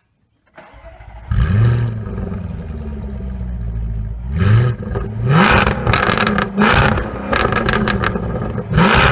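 Jaguar F-Type engine starting: a short crank, then a loud flare about a second in that settles to idle. From about four seconds in come several quick throttle blips, with crackles and pops from the exhaust between them.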